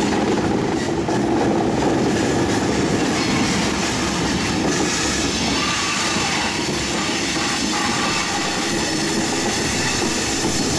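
Train rolling past, a steady rumble and clatter of steel wheels on the rails.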